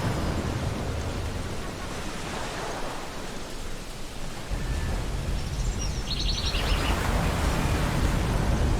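Ocean surf washing steadily on a beach, with a deeper rumble building about halfway through. A gull gives a short, quick run of high calls a little past the middle.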